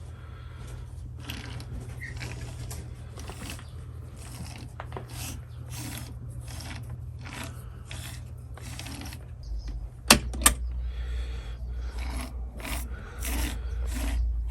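Hand tools and metal engine parts clicking and scraping during a strip-down of a 250cc quad bike engine, a click every half second or so. Two sharp metallic clicks come about ten seconds in, over a steady low hum.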